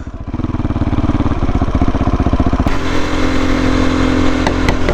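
Motorcycle engine running under way, pulsing steadily and growing louder over the first second. About two and a half seconds in the sound steps up and settles into a steadier hum.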